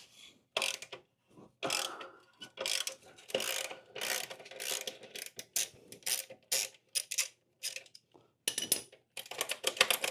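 Ratchet wrench clicking in short, irregular runs of strokes, working fasteners loose on a motorcycle, with the runs coming fastest near the end.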